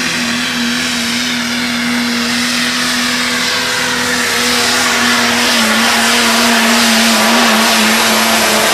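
Super modified four-wheel-drive pulling truck's engine at high, nearly constant revs under full load during a pull, one steady pitch with a dense roar over it, growing slowly louder.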